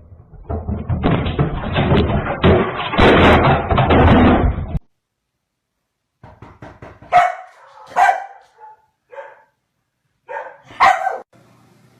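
A dog barking: about five short, separate barks in the second half, spaced roughly a second apart. Before them come several seconds of loud, dense rustling or scuffling noise that stops abruptly.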